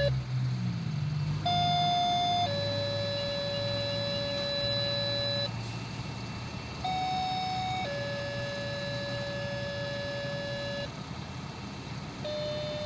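Two-tone sequential fire-alerting tones over a radio scanner: a short higher tone followed by a longer, slightly lower tone. The pair repeats twice, and a third pair begins near the end. These tones page fire companies ahead of a dispatch.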